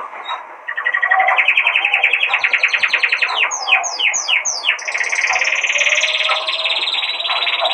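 Pet songbirds singing: a fast rattling trill, then a run of about five quick downward-sliding whistled notes, then a continuous high warble.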